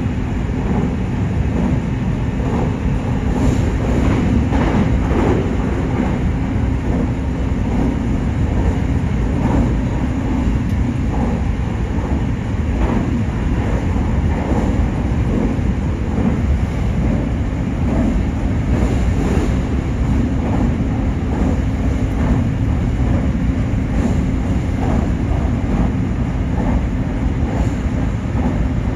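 Nankai 8300 series electric train running at a steady speed, heard from inside the front car: an even rumble of wheels on rail with a steady low hum, and short clicks of rail joints at irregular intervals.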